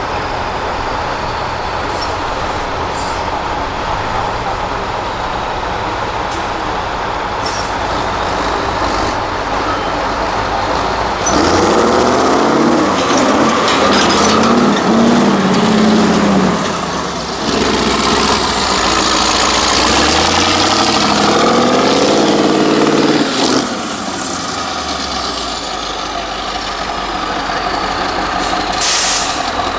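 The diesel engine of an 8x8 Mercedes-Benz trial truck running under load off-road, rising to two long hard revs in the middle that rise and fall in pitch. There is a short hiss of air near the end.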